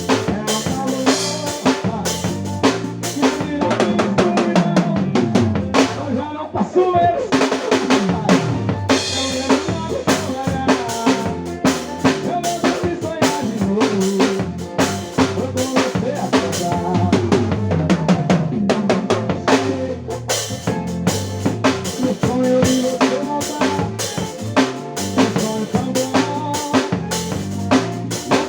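Drum kit played along with a recorded song that has a singer, with bass drum and snare hits running steadily through the music.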